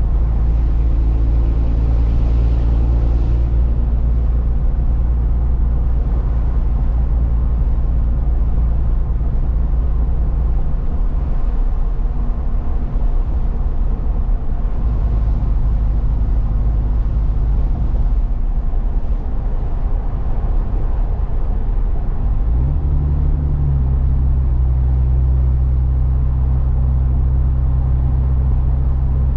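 Truck engine running under a steady haze of road noise while driving. The engine note drops back about a third of the way in, then rises with a short upward glide near the end and holds steady.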